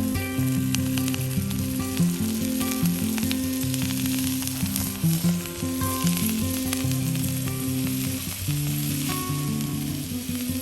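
A hamburger steak sizzling as it fries, a steady hiss with scattered small pops. Low, held background music notes change pitch every second or so.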